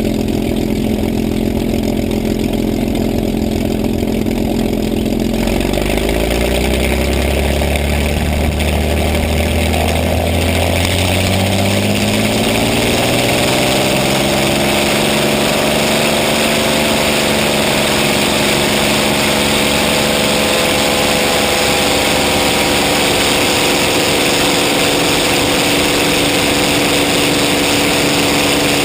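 Propeller aircraft's piston engine running steadily, then its revs rising smoothly over about ten seconds from about six seconds in and holding at the higher speed, with a rushing air noise building up alongside.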